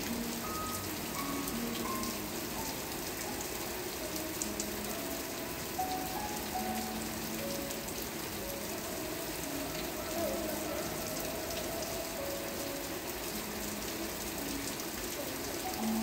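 Steady rain falling, an even hiss with scattered sharper drop ticks, under soft background music of slow single notes.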